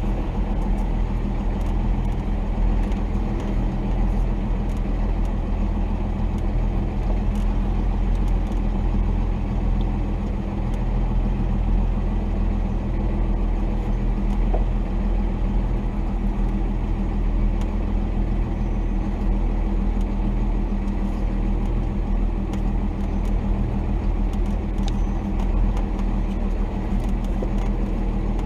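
The 1990 Dodge D250's Cummins 5.9-litre inline-six turbo-diesel running steadily at an even engine speed, with a few faint clicks over it.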